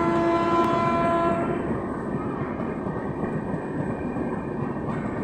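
A train horn sounds once, a single held note for about a second and a half, then fades into the steady rumble of a train running on the rails.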